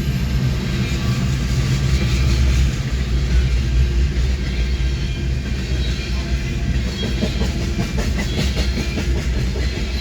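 Freight train of tank cars rolling past: a steady low rumble with wheels clicking over the rails, the clicks coming thicker in the second half.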